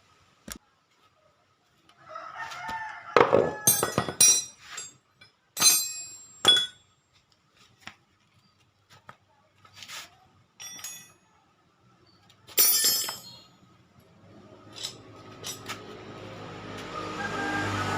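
Metal tools and parts clinking and clanking at intervals, with a rooster crowing about two seconds in. Near the end a vehicle engine hums steadily and grows louder.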